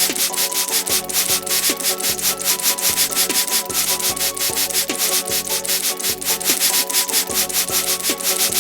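Rapid, even rubbing strokes, about eight a second, as of scrubbing a car's surface during cleaning.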